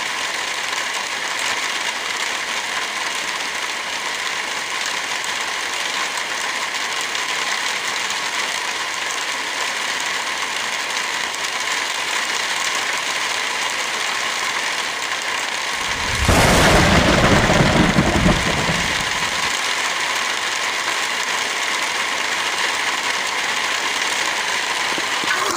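Heavy rain falling steadily in an even hiss. About two-thirds of the way through, a sudden loud low rumble rises over it for about three seconds, then dies away.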